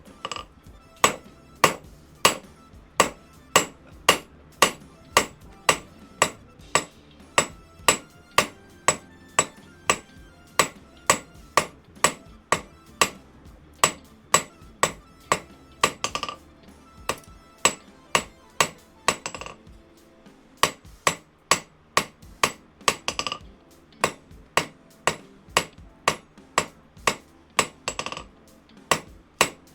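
Steady hand-hammer blows on a piece of hot 5/16-inch round steel bar on an anvil, drawing out and thinning the stock. The blows come about twice a second, with a short pause about twenty seconds in.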